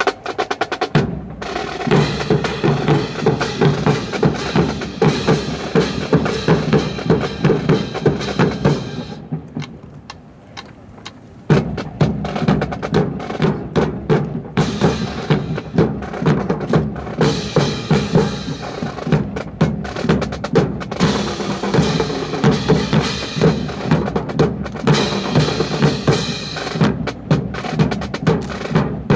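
Marching drum corps playing snare and bass drums in a fast, steady cadence. The drumming drops away about nine seconds in and comes back in full about two and a half seconds later.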